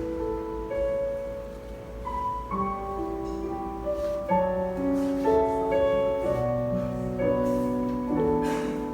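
Keyboard playing slow, sustained chords, the notes changing every second or so.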